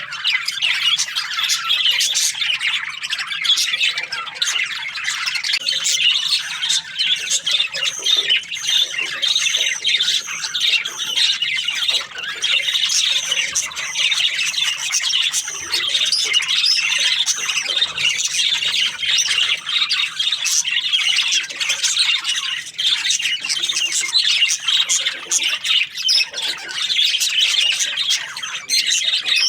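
A flock of budgerigars chirping, warbling and squawking continuously, many birds overlapping in a dense chatter.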